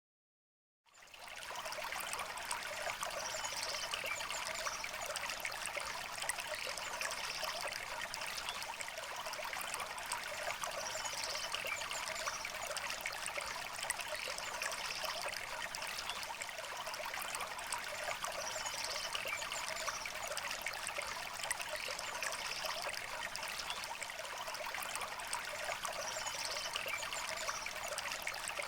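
A clear river flowing gently, a steady trickling rush of water with little low rumble. It fades in about a second in.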